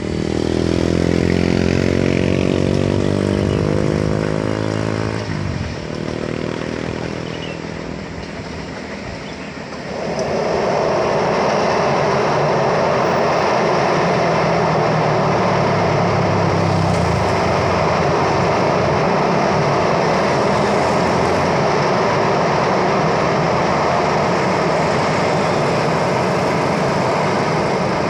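Heavy diesel engine pulling hard under load, its pitch rising for about five seconds, then easing through a gear change. From about ten seconds in, a loud steady rushing roar.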